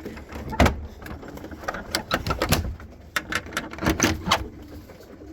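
An irregular run of sharp clicks and clattering knocks, some in quick succession, loudest just before a second in and again around the middle.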